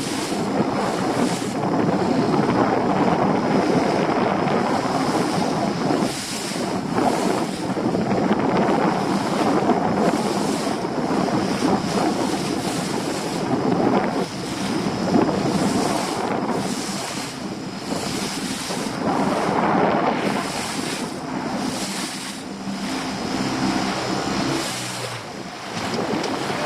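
Small boat's engine running in choppy sea, with waves and wind buffeting the microphone; the engine's hum stands out most at the start and again near the end.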